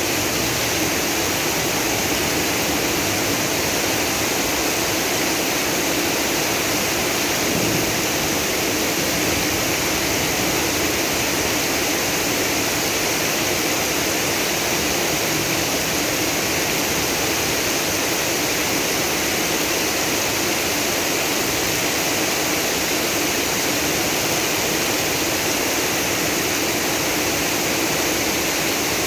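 Heavy tropical downpour with rainwater flooding the street: a steady, unbroken rush of water.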